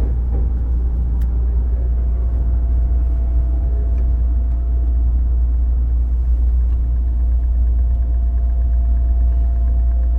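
Onboard running sound of a JR 205-series electric motor car with MT61 externally-fanned traction motors: a loud, steady low rumble of wheels and motors, with a thin steady tone over it from about a second in.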